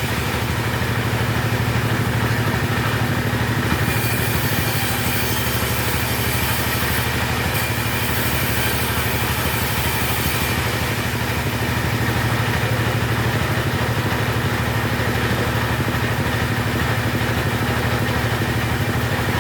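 Chainsaw engine running steadily at an even, low idle, with no revving or change in pitch.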